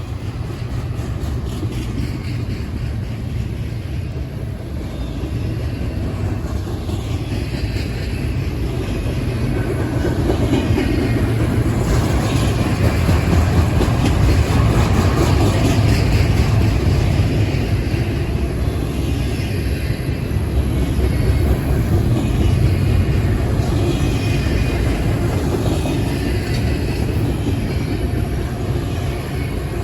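CSX double-stack intermodal freight train rolling past, its well cars making a steady rumble of wheels on rail that grows louder about ten seconds in.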